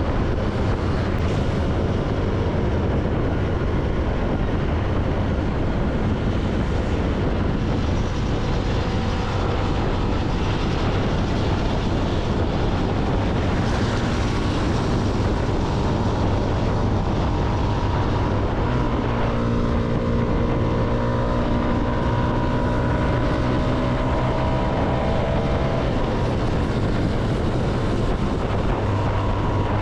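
CFMoto motorcycle engine running steadily at road speed, mixed with heavy wind and road noise. Past the middle the engine's tones stand out more clearly for several seconds.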